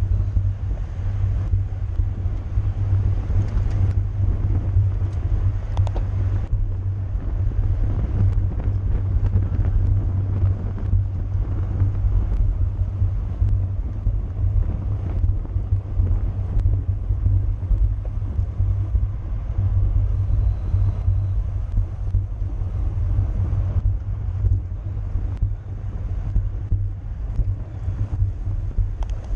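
Steady low wind rumble buffeting the microphone of a road bicycle moving at race speed, mixed with road and tyre noise.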